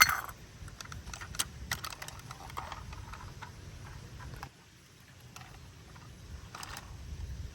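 Irregular light plastic clicks and knocks from a toy garbage truck being handled, over a low rumble that stops about halfway through.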